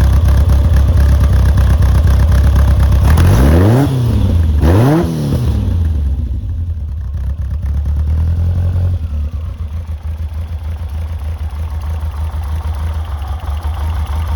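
Caterham Super Seven 1700SS's Ford crossflow four-cylinder engine idling, blipped twice in quick succession about three and a half and five seconds in, each rev rising and falling back, then settling to a steady, slightly quieter idle.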